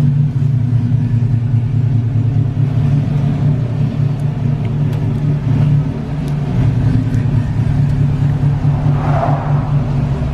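Vehicle engine running steadily, a low even drone. A brief higher-pitched sound comes about nine seconds in.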